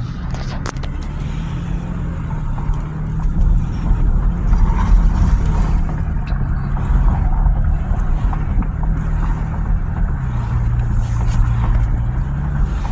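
A truck driving: steady engine and road rumble, its engine note dropping to a lower pitch about ten seconds in.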